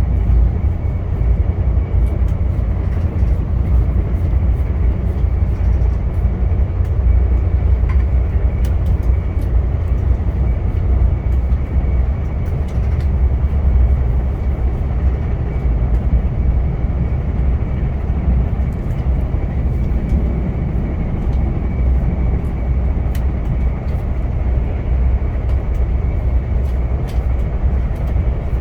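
VIA Rail passenger train running on the tracks: a steady, heavy low rumble with light scattered clicks and rattles.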